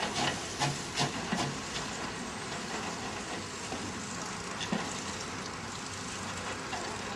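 Steam locomotive hissing steadily, with a quick run of sharp knocks in the first two seconds and one more a little past halfway.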